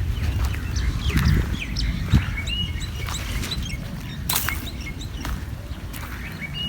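Many short, high bird chirps scattered throughout, over a steady low rumble, with a few sharp clicks or knocks.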